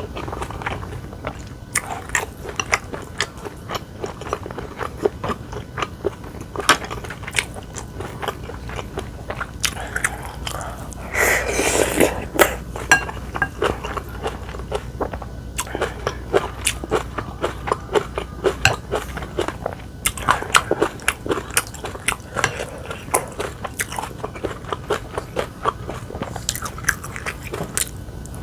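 A person chewing and biting food close to the microphone: a steady run of small mouth clicks and crunches, with a louder stretch near the middle.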